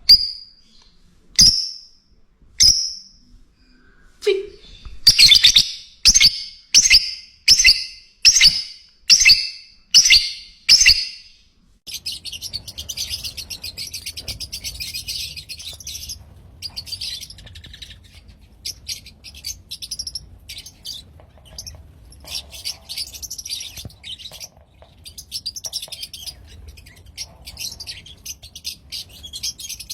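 Lovebirds calling: a few loud, high single calls, then a rapid run of loud calls repeating about every half second. About twelve seconds in this gives way to continuous fast, high-pitched chattering and chirping over a faint low hum.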